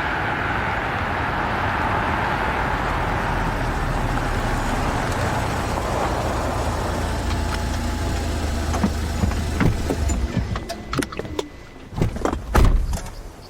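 Steady road and engine rumble from a car that is driving and then dies away as the car pulls over and stops. Near the end comes a run of clicks and two heavy thumps, a car door being opened and shut.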